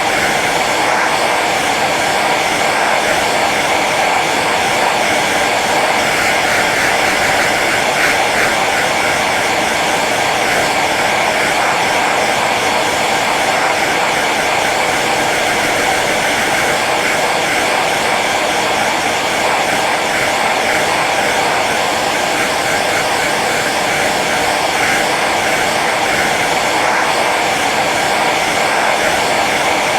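Hair dryer running steadily on its low setting: a constant blowing whir of fan and airflow.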